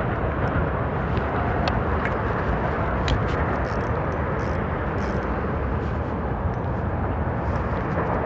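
Wind buffeting the microphone: a steady low rush, with a few faint scattered clicks.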